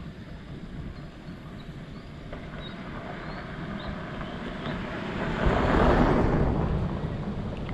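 Steady rushing noise of riding a bicycle, wind on the microphone and tyres on the road, swelling to a louder whoosh about five and a half seconds in. A few faint bird chirps.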